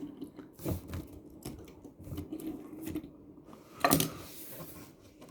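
Small toys and packaging handled on a tabletop: scattered light clicks and knocks. About four seconds in comes a louder clatter followed by a short rustle.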